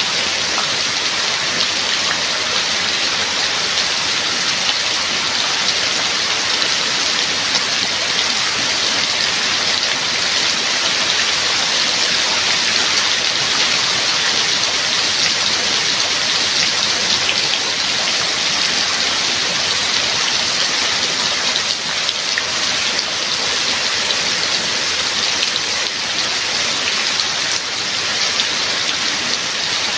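Steady heavy rain falling, a dense even patter of drops.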